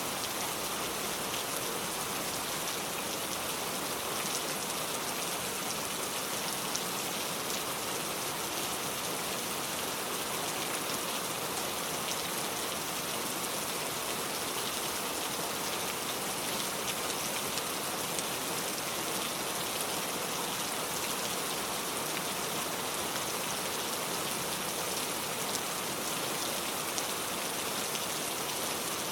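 Steady rain falling on a car, an even patter of drops with no let-up.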